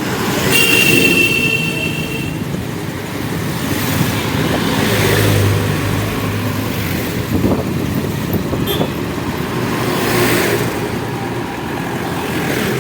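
Road traffic and wind noise during a ride on a scooter or motorbike, with a high steady tone sounding for about two seconds near the start.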